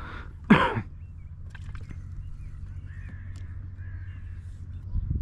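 A loud, harsh bird call about half a second in, falling in pitch, then fainter short calls from birds farther off. A low, steady hum runs underneath.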